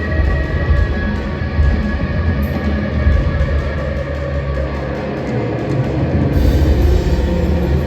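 A rock band playing live, with a strong bass end and some sustained higher notes.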